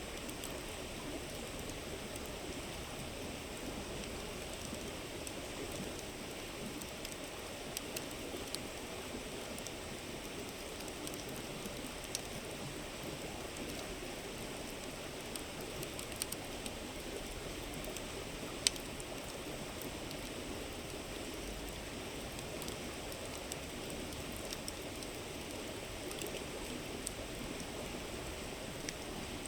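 A river babbling steadily, with a wood campfire crackling in scattered sharp pops over it; the loudest pop comes a little past the middle.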